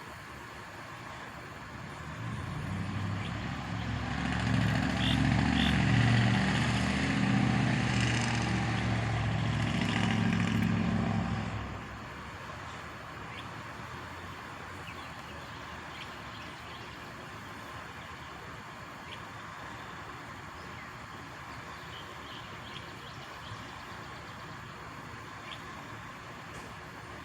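Truck engine pulling away, building over a couple of seconds into a loud low drone that holds for about ten seconds and then drops off abruptly about twelve seconds in, leaving a steady faint hum.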